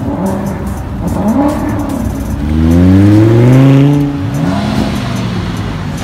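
Lamborghini Huracan Spyder's 5.2-litre V10 engine revving as the car accelerates: the pitch climbs for about a second and a half, peaks loudest in the middle, then drops away.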